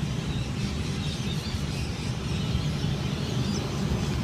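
Steady low hum of an electric test train standing at the platform, with a few faint bird chirps above it.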